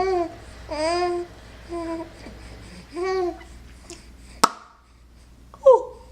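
A 10-week-old baby cooing: four short, drawn-out vowel sounds that rise and fall in pitch over the first three seconds or so, then a sharp click about four and a half seconds in, and one brief falling coo near the end.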